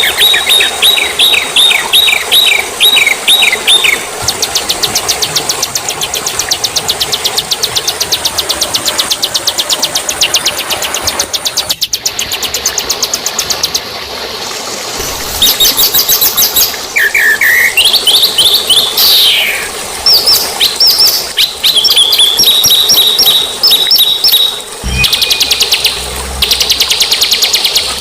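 Songbird song, loud and continuous, with several birds or song types layered: a run of repeated down-slurred chirps, then a long fast high trill, then a jumble of whistled notes, chirps and rattling trills after a short break in the middle.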